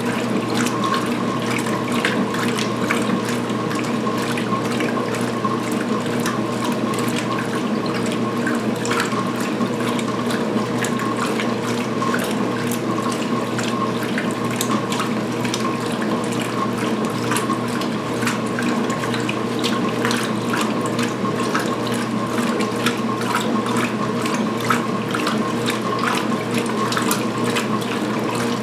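2016 Speed Queen belt-drive top-load washer in high-speed rinse agitation: water and towels sloshing and splashing in the tub over the steady hum of the drive.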